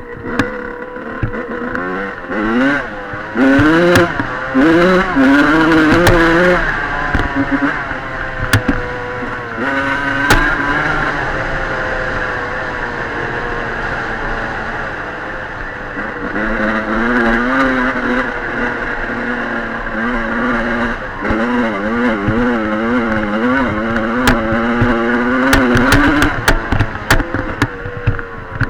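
Dirt bike engine revving up and down repeatedly as the bike is ridden, with a steadier stretch in the middle and fast wavering revs later on. Sharp clattering knocks come through, most of all near the end.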